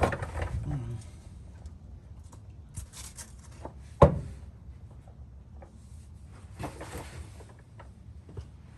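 Scattered handling noises in a workshop: light clicks and short rustles, with one sharp knock about four seconds in.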